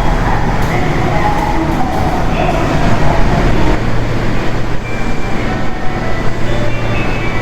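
Hanshin Railway electric train running through an underground station platform: a steady, loud running noise with a constant low hum and a few light clicks in the first couple of seconds.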